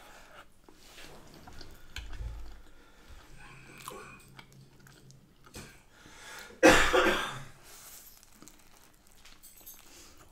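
Close-miked chewing of Yorkshire pudding and soft mouth sounds. About two-thirds of the way through comes one short, loud cough.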